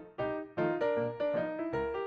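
Background music: a piano-like keyboard melody of short, quick notes.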